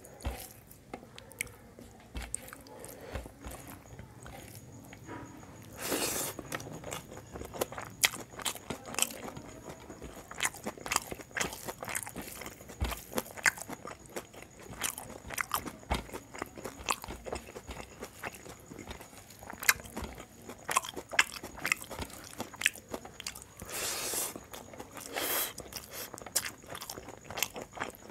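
Close-miked chewing of rice mixed with dal and kadi, eaten by hand, full of sharp wet mouth clicks and smacks. A few brief, louder hissy mouth sounds come about six seconds in and twice near the end.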